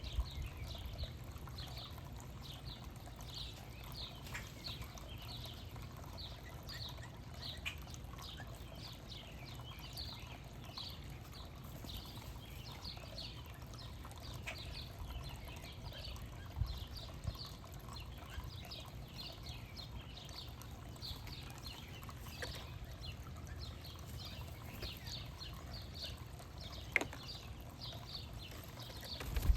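Small songbirds chirping busily, short high chirps several times a second with no letup, over a low steady rumble.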